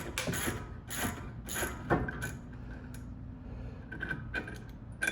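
Ratchet socket wrench clicking as a brake caliper bolt is backed out. There is a run of clicks in the first two seconds, then fewer, fainter clicks.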